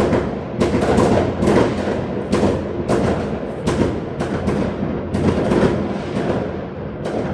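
New Year fireworks going off in quick, irregular succession: sharp bangs and crackling bursts about two or three a second, with a short lull about six seconds in.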